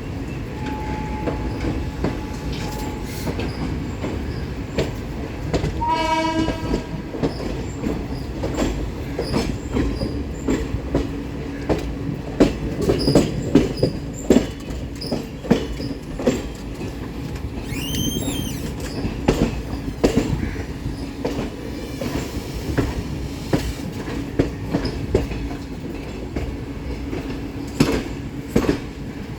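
A moving train's wheels clattering rhythmically over rail joints, with a steady rumble underneath. A short horn blast sounds about six seconds in, and a brief high squeal comes near the middle.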